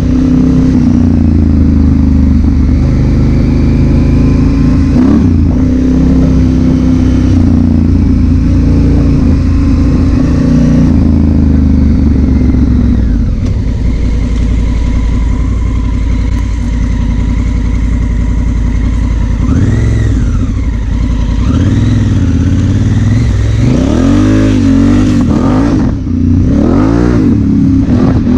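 Honda Africa Twin CRF1000L's parallel-twin engine running under way, picked up by a helmet-mounted camera. It holds fairly steady for most of the stretch, then revs up and down several times near the end.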